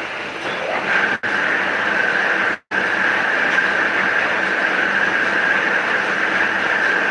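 Paper cutting machine running with a steady mechanical hum and a high whine that comes in about a second in. The sound cuts out for an instant twice.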